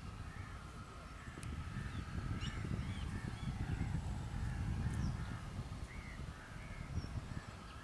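Birds calling outdoors, a scatter of short chirps and caws, over a low, uneven rumble that swells in the middle.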